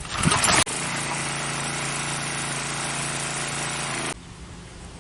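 Pressure washer's small gasoline engine pull-started with the wand trigger held open. A loud burst of noise, then the engine running with a steady even drone that cuts off abruptly about four seconds in.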